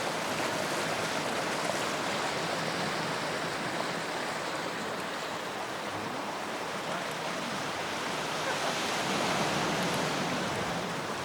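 Steady rushing of water, swelling slightly about nine seconds in.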